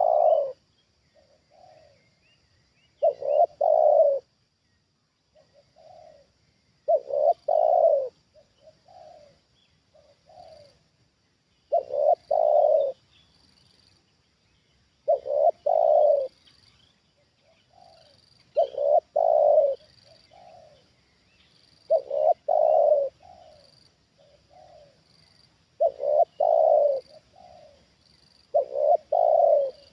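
Spotted dove cooing: a loud phrase of low coos about every three and a half to four seconds, eight times over, with softer single coos in between.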